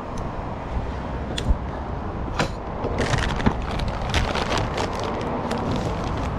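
Kaabo Wolf King GTR electric scooter rolling slowly along a concrete sidewalk: a steady rumble of tyre and road noise with sharp clicks and rattles, most of them between about three and four and a half seconds in.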